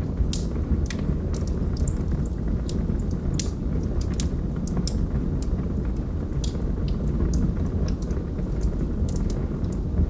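Wood logs burning in a fireplace: a steady low rumble of flames with irregular sharp crackles and pops, roughly two a second.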